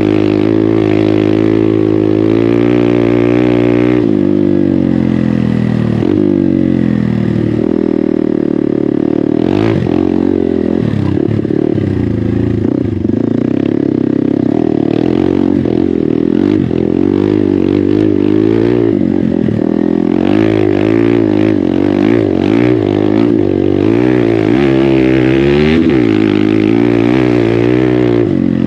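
Hero Xpulse 200's single-cylinder engine, fitted with an aftermarket MW Performance exhaust, running under a rider, its revs rising and falling again and again with the throttle. Occasional knocks sound over the engine.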